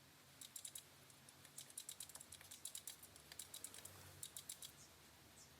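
A quick run of light, sharp clicks and taps, many in a row, starting about half a second in and stopping shortly before the end.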